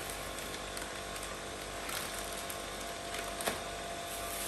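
A steady electric hum with hiss, like a small motor or appliance running, with a couple of light knocks of things being handled, about two seconds in and again near the end.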